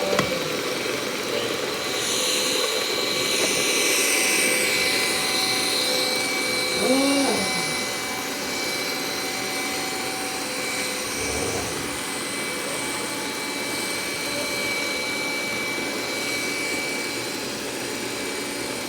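Robot vacuum cleaner running: a steady whir of its suction fan and brushes carrying several constant high tones, louder and hissier for a few seconds near the start. A short sweeping sound comes about seven seconds in.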